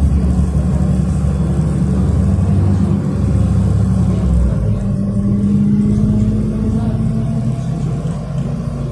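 City bus engine and drivetrain running under way, heard from inside the passenger cabin: a loud, steady low drone with a faint whine that rises slowly through the middle.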